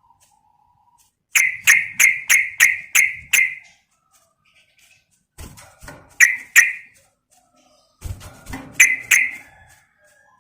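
Yellow-vented bulbul calling: a quick run of about seven sharp notes, then a pair of notes in the middle and another short burst near the end.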